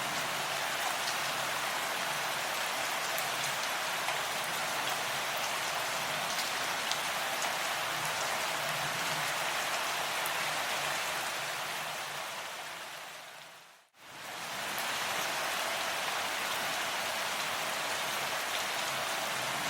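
Steady rain falling, an even hiss with scattered individual drops ticking. About two-thirds of the way through it fades away to silence over a couple of seconds, then comes straight back at full level.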